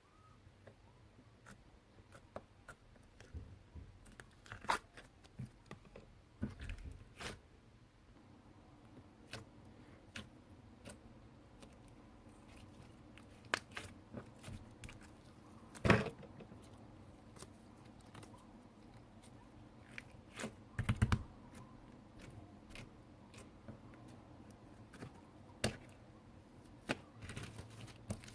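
Slime being squeezed and stretched by hand, giving scattered sticky clicks and pops, with a louder pop about 16 seconds in and a short cluster of them about 21 seconds in.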